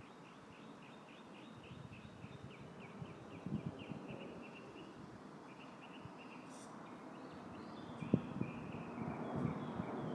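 A small bird singing a fast trill of evenly repeated high chirps, about five notes a second, then scattered chirps in the second half, over a steady hiss of breeze and rustling leaves. A few short low knocks come about a third of the way in and again near the end.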